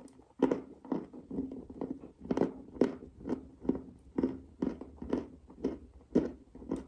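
Dry clay being chewed: steady crunching, about two chews a second.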